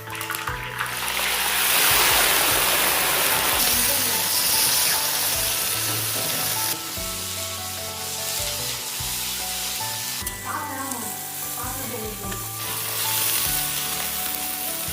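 Food sizzling loudly in hot oil, with stirring. The sizzle swells about a second in and settles lower about seven seconds in. Background music plays underneath.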